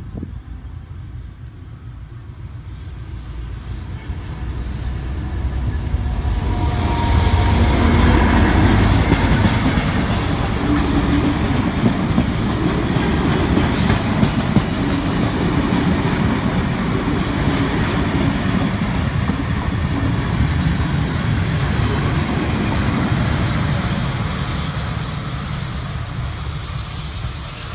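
A heritage passenger train passes, led by diesel locomotive GL102 with steam locomotive 3016 trailing. The diesel's rumble builds over the first several seconds and is loudest about eight seconds in, followed by the steady run of the carriages with wheels clicking over rail joints. A hiss rises near the end as the steam locomotive at the rear goes by.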